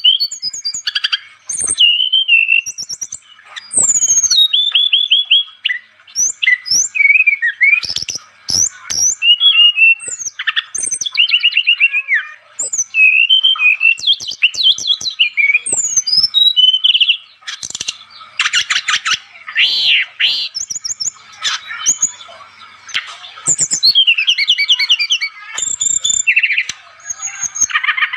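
Brown-chested jungle flycatcher (SRDC, sikatan rimba dada coklat) singing at full stretch. It is a continuous, varied run of quick whistled notes, up- and down-sliding phrases and fast trills, with only brief pauses.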